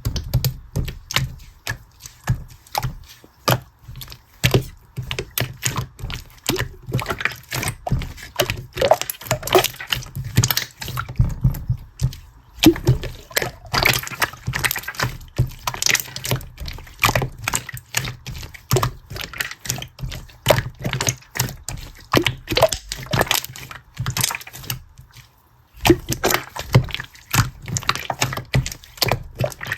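A rapid, irregular run of small clicks and taps, as of objects being handled and tapped, with a short pause about four-fifths of the way through.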